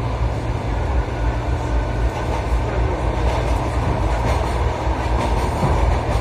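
Steady rumble of a moving passenger train heard from inside the carriage: wheels running on the rails.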